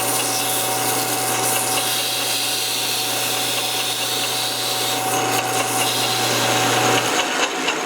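Metal lathe running while sandpaper is held against the spinning mild-steel shaft, a steady hiss of abrasive rubbing over the machine's hum. The low hum drops away about seven seconds in while the hiss carries on.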